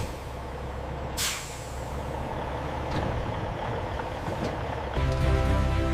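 A heavy truck's engine idling with a low rumble, and a sharp hiss of its air brakes releasing about a second in. Music comes in near the end.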